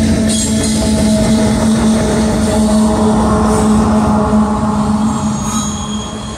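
Freight train of covered hopper cars rolling past with a steady droning tone from the wheels, then the rear Canadian Pacific diesel locomotive going by. The sound fades as the train moves away near the end.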